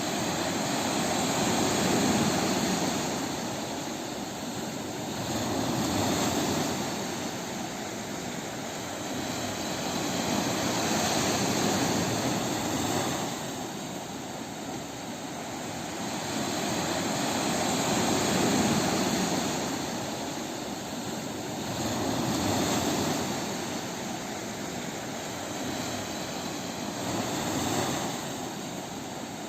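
Ocean waves breaking on a beach: a continuous wash of surf that swells and recedes about every four to six seconds.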